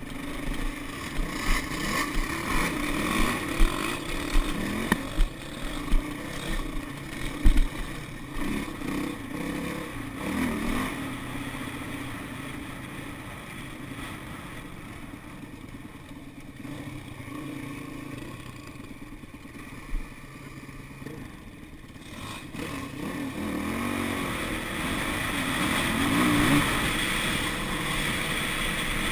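Dirt bike engine running and revving while riding, with a run of sharp knocks and rattles in the first several seconds. The engine drops back through the middle, then revs up again near the end.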